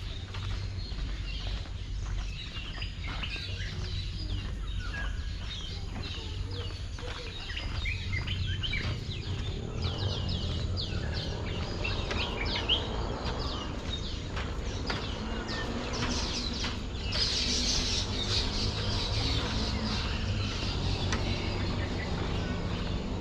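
Several birds chirping and calling in quick, overlapping short notes, over a steady low rumble. About three-quarters of the way through there is a brief hissing buzz.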